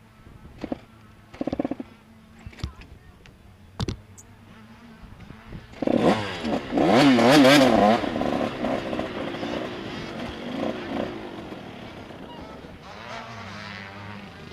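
A few clicks and knocks, then about six seconds in a motocross bike engine revs up and down quickly, loudest for a couple of seconds, then fades away.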